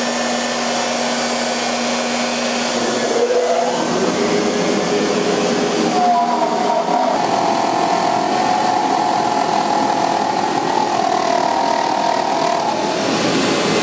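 CNC router spindle and dust collector running steadily. About three to four seconds in the sound changes, and from about six seconds a higher, wavering whine joins for roughly seven seconds as the bit cuts into the wooden pattern blank.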